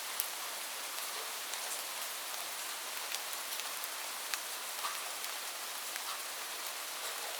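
Steady rain falling, an even hiss with scattered sharp ticks of single drops striking a hard surface.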